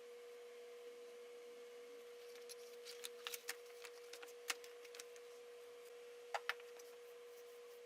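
A steady faint hum on one pitch, with a scatter of light clicks and taps in the middle and two sharper clicks in quick succession near the end.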